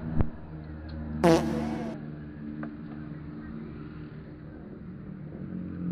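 Steady low hum of a running engine, with a sharp thump just after the start and a brief loud burst about a second in.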